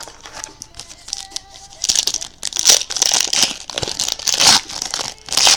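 Plastic trading-card pack wrapper being handled and torn open: faint crackling at first, then louder crinkling and tearing from about two seconds in.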